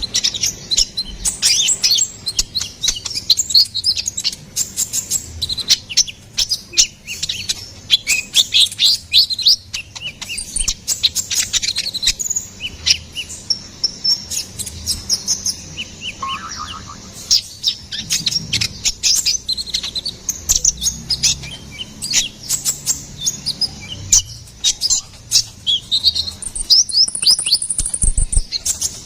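Kolibri ninja (konin), a small sunbird, singing a rapid, continuous string of high, thin chirps and short twittering sweeps.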